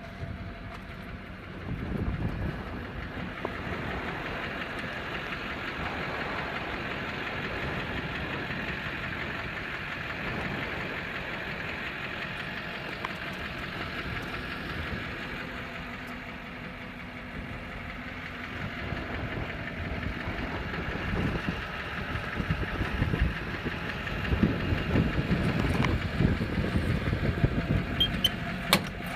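Diesel engine of a 2002 Chevrolet truck running at idle, growing louder and rougher in the last several seconds.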